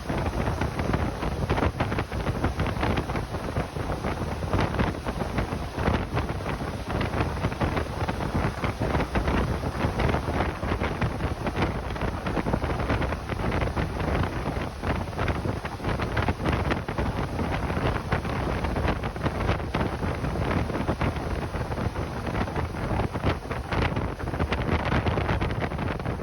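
Steady wind rushing over the microphone of a moving motorcycle, with road and engine noise mixed in underneath.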